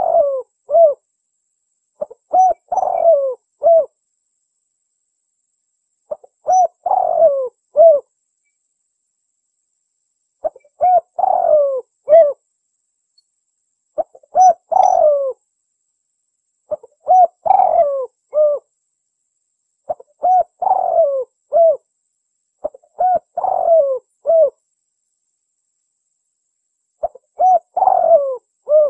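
Spotted dove (tekukur) calling, a call of the two-note 'kuk dua' style used in contest birds. It gives a short phrase of several coo notes, repeated about every three seconds, nine times over.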